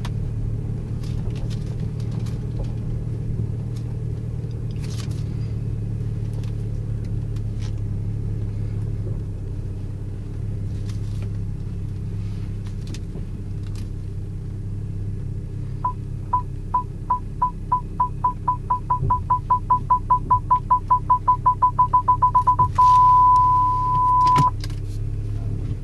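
BMW 335i's N54 twin-turbo straight-six running at idle. About two-thirds of the way in, the parking-distance sensor starts beeping, the beeps coming faster and faster until they merge into a continuous tone for about two seconds, which signals an obstacle very close behind or ahead.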